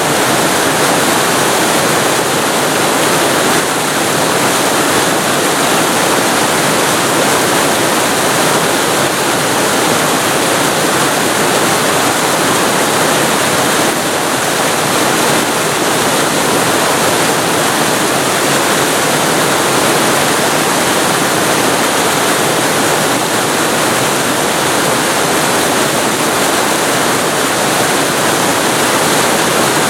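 Waterfall recorded close up: a loud, steady rush of falling water, with no breaks or changes.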